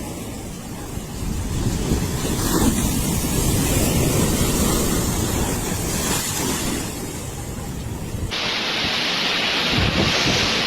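Loud, steady rushing noise of a storm, with wind buffeting the microphone. About eight seconds in it changes abruptly to a hissier rush.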